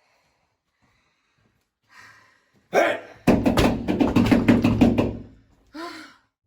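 A fast run of about a dozen loud knocks or bangs, roughly seven a second, lasting about two seconds. A short voiced cry follows near the end.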